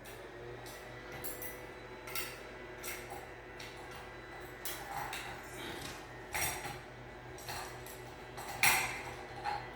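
Irregular metallic clinks and knocks of hand tools and screws being handled while removing screws, the loudest near the end, over a faint steady hum.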